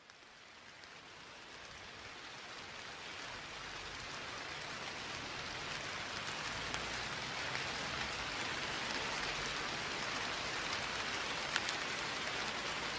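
Steady rain falling, fading in from silence over the first few seconds and then holding even, with a few faint drop ticks.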